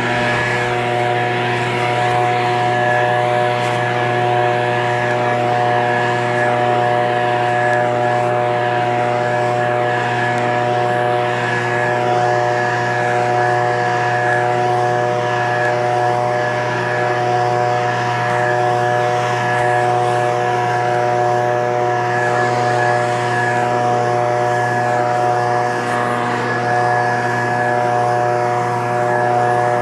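Echo PB-2620 handheld leaf blower's small two-stroke engine running steadily at high speed, its pitch holding constant.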